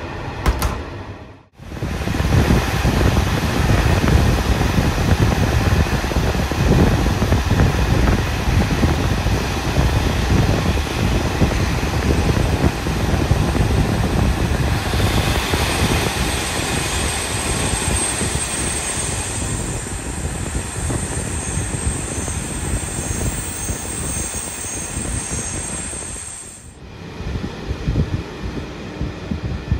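Passenger train running at speed, heard through an open coach window: a loud, steady rumble of wheels on the track mixed with rushing wind. A thin, high whine comes in about halfway through and lasts about ten seconds. The noise cuts out briefly about a second and a half in and dips again near the end.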